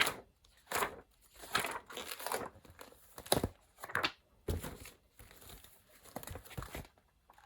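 Paper sheets rustling and crinkling in a run of short, irregular handlings as pages and drawing sheets are turned and moved.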